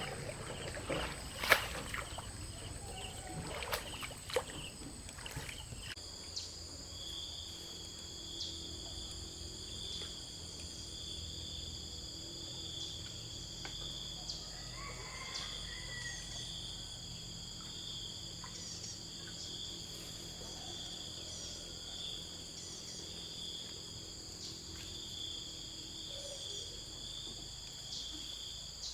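A few sharp knocks and clatter in the first seconds, then, from about six seconds in, a steady high-pitched chorus of insects chirring.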